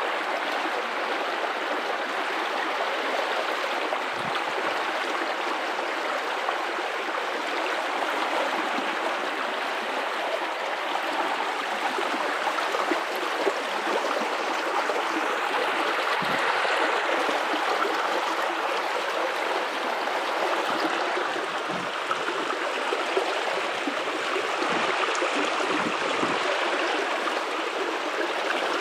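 River water running steadily over rocks, a continuous rushing and splashing with gurgling in it.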